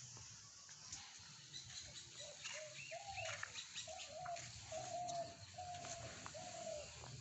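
A bird calling: a series of about six short, even notes, each slightly falling, starting about two and a half seconds in, with faint scattered clicks around them.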